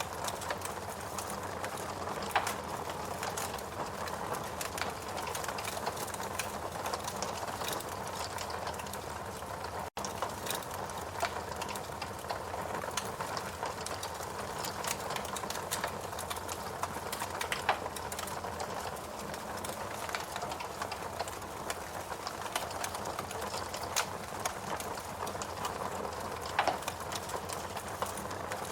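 Wood fire in a fireplace burning with a steady hiss and frequent irregular crackles and snaps from the burning logs, with a few louder pops. A momentary gap in the sound about ten seconds in.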